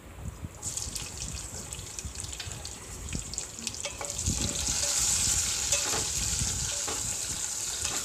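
Chopped tomato dropped into hot oil in a stainless steel pan, setting off a sudden sizzle less than a second in. A spatula then scrapes and knocks against the pan while stirring, and the frying sizzle grows louder about four seconds in.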